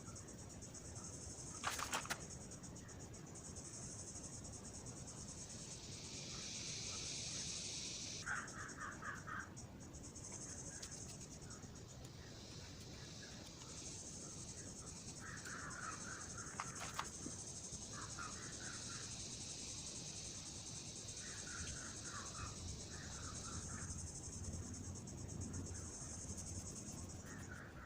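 Insects chirring steadily in the background with a high buzzing that swells and fades, and short trilled bursts from other callers. A couple of sharp clicks, about two seconds in and again past the middle, stand out above them.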